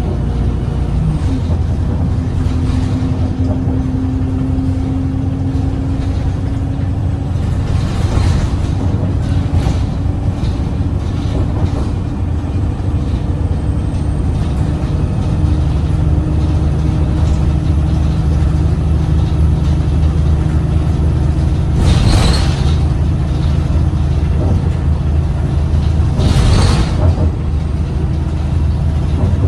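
Cummins ISBe diesel engine of an Alexander Dennis Enviro 200 bus heard from inside the cabin, droning steadily while under way. In the second half come two short hisses about four seconds apart.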